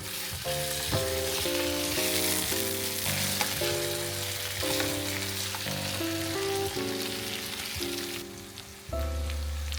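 Food sizzling in a hot frying pan over soft background music; the sizzle cuts off abruptly about eight seconds in, leaving the music.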